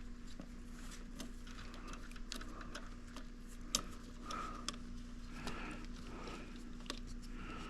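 Scattered light clicks and small knocks of handling, over a steady low electrical hum.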